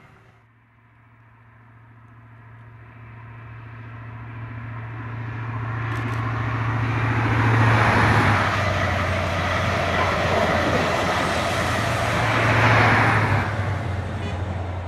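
An East Midlands Railway HST with diesel Class 43 power cars and Mk3 coaches approaches and passes at speed. The power car's engine drone grows steadily louder, and the sound is loudest as the leading power car passes about eight seconds in. The coaches rush past, a second peak comes near thirteen seconds as the rear power car passes, and then the sound fades.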